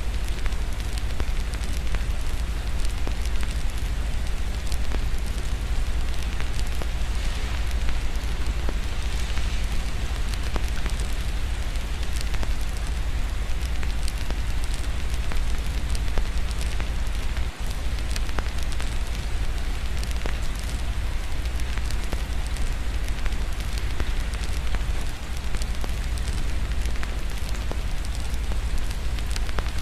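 Wood fire crackling in a fireplace with many small sharp pops, over a steady hiss of rain and a constant low rumble.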